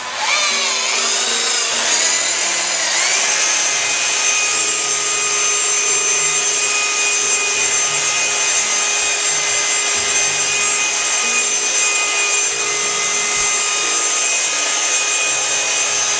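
Makita electric polisher running on a marble floor with wet polishing powder: its motor whine climbs and wavers over the first few seconds as it comes up to speed, then holds steady.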